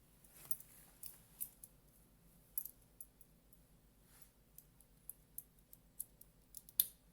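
Faint clicks and rattles of a dive watch's beads-of-rice bracelet and clasp being handled while the watch is put on the wrist, with a sharper click near the end.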